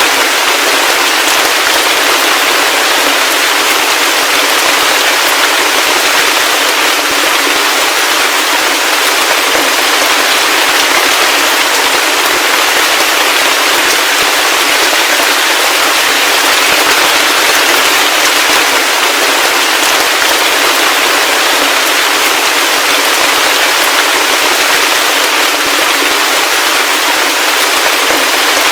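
Heavy rain falling steadily, a dense even hiss with many fine crackling drop impacts. It has no low rumble.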